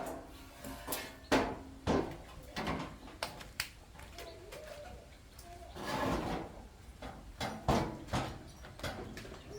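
A series of irregular knocks and clunks of hard objects being handled and set down, about a dozen over several seconds, with a longer scraping clatter about six seconds in.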